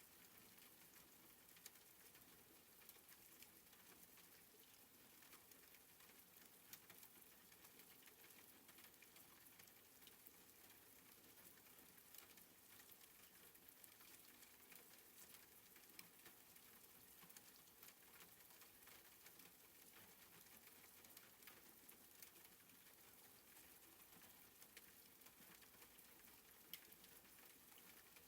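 Faint, soft rain falling steadily, an even hiss with scattered small drop ticks throughout.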